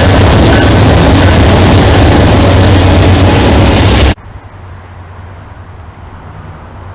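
Loud, steady rumble and roar of a Norfolk Southern manifest freight train rolling past close by. It cuts off abruptly about four seconds in, leaving a much quieter steady rumble.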